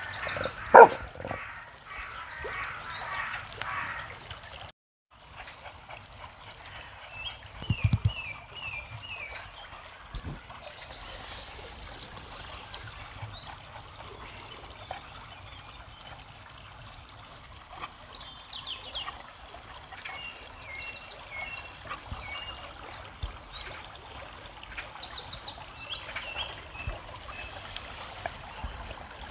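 Songbirds singing in repeated short chirping phrases over a steady trickle of water. There is a loud sudden sound about a second in and a short burst of loud sounds around eight seconds in.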